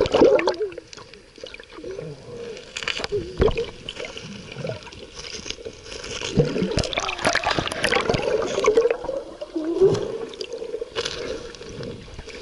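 Splashing and sloshing of sea water around a swimmer, with several sharp splashes, mixed with high-pitched voices calling out at intervals.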